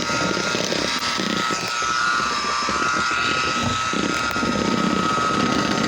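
Electric hand mixer running steadily, its beaters whipping chocolate pudding mix and milk in a bowl, with a constant motor whine.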